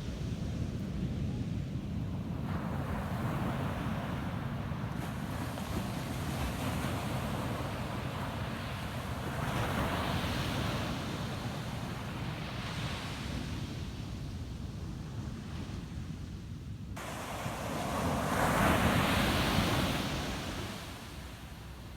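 Ocean waves breaking on a beach: a steady wash of surf that swells twice, the second and loudest wave about three-quarters of the way through, over a low wind rumble on the microphone.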